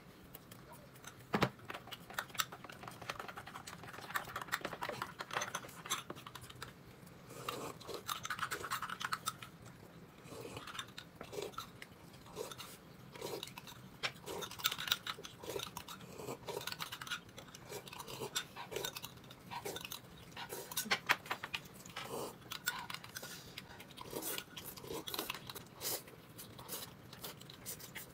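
A person eating close to the microphone: chewing in a steady rhythm, with small smacking and crunching sounds.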